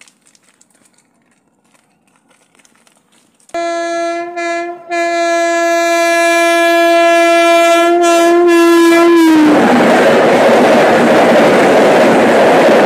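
Indian Railways passenger train: its horn sounds a short blast, then a long one that dips in pitch as it ends, and the passenger coaches then rush past close by, loud and steady.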